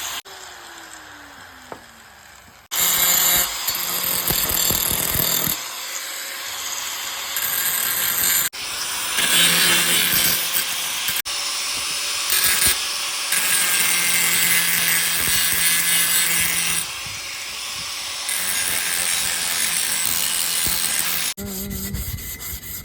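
Grinder grinding down the welded joints of a steel sculpture, loud and continuous, in several stretches joined by abrupt cuts. Near the start, a falling whine as the motor winds down.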